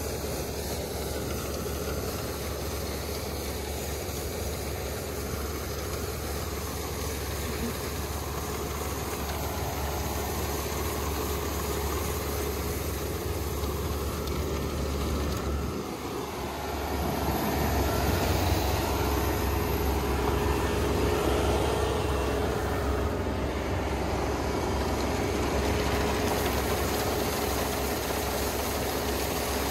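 Kubota ER470 combine harvester running with a steady low engine hum. It dips briefly about halfway through, then runs louder.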